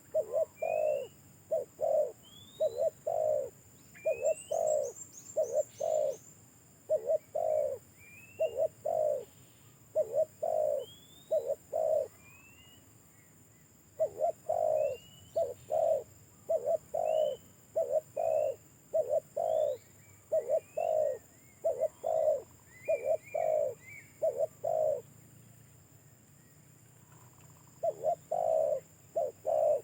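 Spotted dove (tekukur) cooing over and over in phrases of several notes, pausing briefly about twelve seconds in and again for a few seconds near the end. Small birds make faint, short rising chirps behind it.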